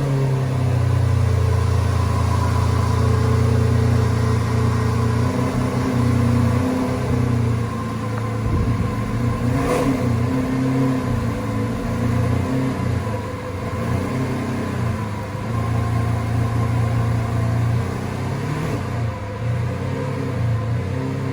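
McLaren P1's twin-turbo V8 running at low revs as the car is driven slowly, with small rises and falls in pitch. A single short click about halfway through.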